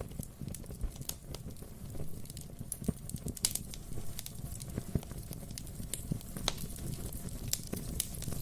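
Wood fire burning in a fireplace, with a steady low rumble and frequent sharp, irregular crackles and pops.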